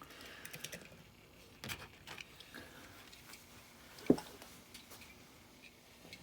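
Faint scattered clicks and light taps from handling a small diecast toy truck, with one sharper knock about four seconds in.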